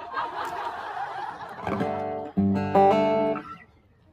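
Acoustic guitar strummed in a few full chords about halfway through, ringing briefly and then stopping: the player checking the guitar's tuning. Before the chords comes a short stretch of noise.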